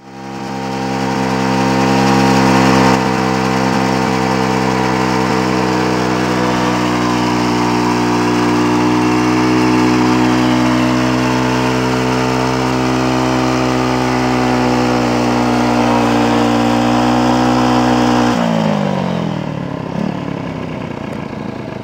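Small motorcycle engine held at steady high revs while its rear tyre spins in a burnout, then the revs fall away about 18 seconds in.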